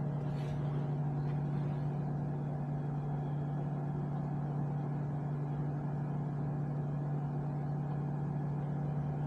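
Small 0.6 cu. ft. microwave oven running on high, giving a steady, unbroken hum with a low electrical drone, while it draws about 1200 to 1300 watts.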